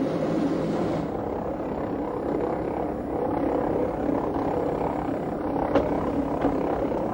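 Jungfrau Railway electric rack train running: a steady mechanical drone of the train in motion, with a sharp click near the end and a fainter one just after.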